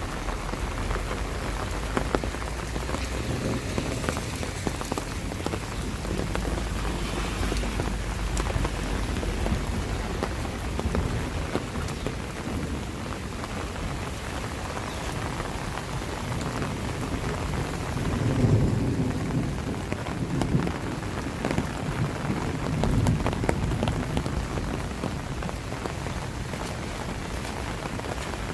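Steady rain falling, with many close drops ticking. A deeper rumble swells up twice in the second half.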